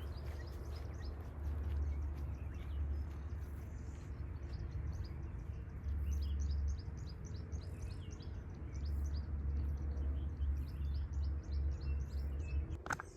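Wind gusting on the microphone, with many short, high bird chirps in the background.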